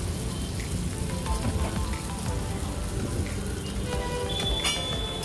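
Egg omelette frying on a hot flat iron griddle: a steady crackling sizzle. Music plays in the background, and a steady high tone joins it near the end.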